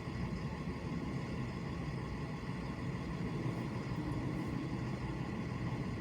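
A car driving, with steady road and engine noise that is deep and even throughout.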